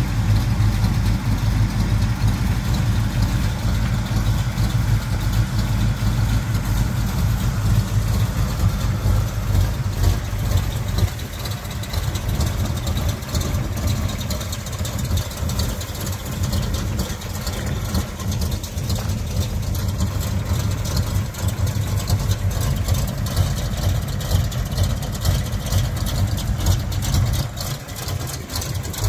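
Pontiac Trans Am's 455 V8 engine idling steadily with a low rumble, a little quieter from about eleven seconds in.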